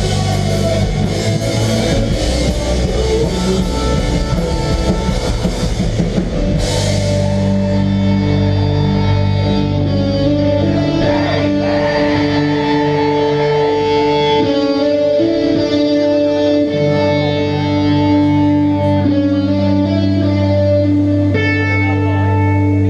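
Live melodic hardcore band playing an instrumental passage with no vocals: distorted guitars over a busy drum kit, until the drumming stops after a final high crash about six and a half seconds in, leaving long sustained guitar notes ringing.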